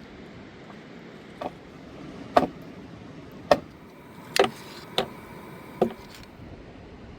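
Axe chopping wood: six sharp blows, unevenly spaced, over a steady rushing background.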